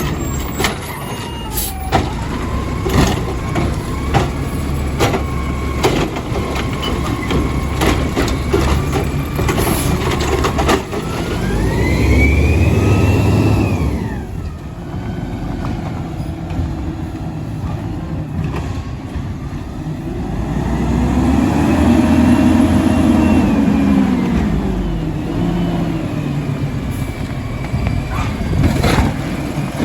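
Garbage truck's diesel engine revving up and falling back twice, about halfway through and again about three quarters in, with a string of clanks and knocks during the first third.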